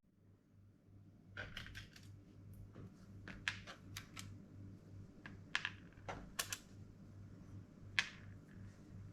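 Irregular light clicks and taps of small hardware parts and a tool being handled, over a low steady hum.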